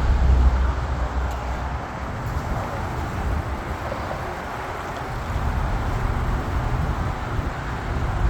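Steady outdoor background noise: a low, wavering rumble of passing traffic and wind on the microphone.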